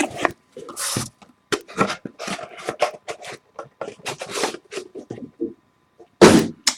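Trading card box and its wrapping being opened and handled: a string of short scraping and rustling sounds of cardboard and plastic, with a louder rustle near the end.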